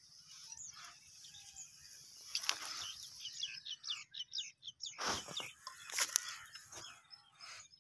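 Small birds chirping, with a quick run of high chirps about three seconds in, over a faint high hiss. A few louder rustles or knocks come about two and a half seconds in and again around five to six seconds in.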